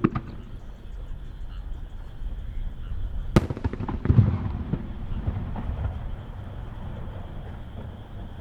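Aerial firework shells bursting: a small bang at the start, then a sharp crack about three and a half seconds in, followed by a deep boom that rumbles on for a second or two.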